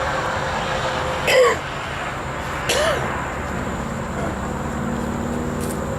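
Outdoor background: a steady low rumble and a thin, steady high tone, with two short voice sounds, like a throat clearing, about one and a half and three seconds in. A little past halfway a low, steady vehicle-engine hum sets in.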